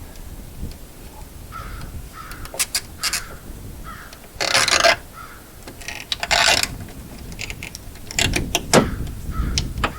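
Sharp clicks and two longer scraping bursts from hands-on work at a pickup truck, with repeated bird calls behind.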